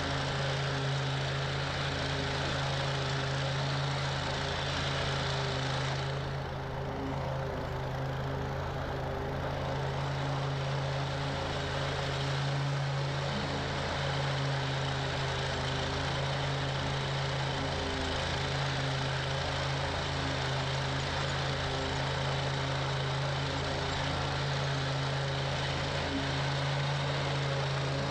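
Toro Grand Stand stand-on mower's engine running steadily while mowing. The higher hiss dips briefly about six seconds in.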